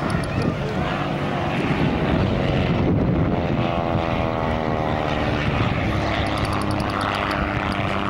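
Single-engine propeller plane, a Cessna L-19/O-1 Bird Dog, flying past during its display. Its engine-and-propeller drone drops steadily in pitch through the middle as it passes.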